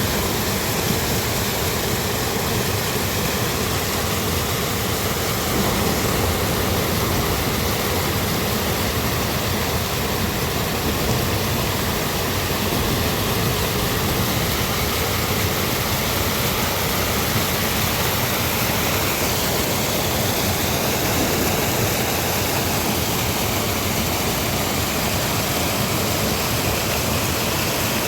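Heavy rainstorm with running floodwater: a steady, even rush of water that does not let up.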